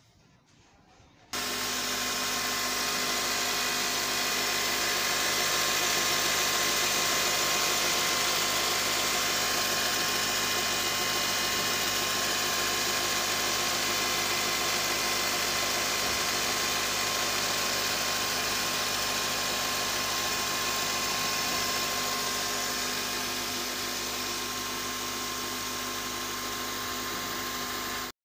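Honda 2.4-litre i-VTEC four-cylinder engine idling steadily, turning its freshly fitted serpentine belt and accessory pulleys, with a constant mechanical whir. It starts suddenly about a second in and cuts off just before the end.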